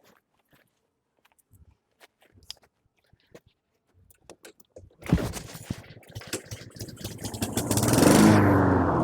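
Honda HRN216 lawn mower pull-started about halfway through: its engine fires on starting fluid and runs, speeding up for a few seconds, then falls away near the end. It is running on the starting fluid alone, the fuel valve still turned off.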